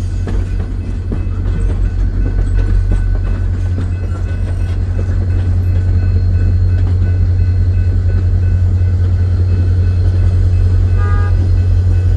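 VIA Rail diesel locomotive (EMD F40PH) running with a steady, heavy low rumble that slowly grows louder. A short pitched tone, like a horn, sounds about a second before the end.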